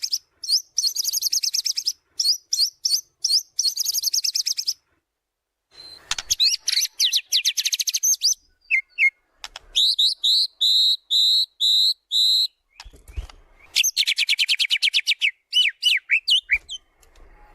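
White-rumped shama (murai batu) singing a varied song: fast rattling trills and a run of about six repeated clear whistled notes, with a pause of about a second near the five-second mark, stopping near the end.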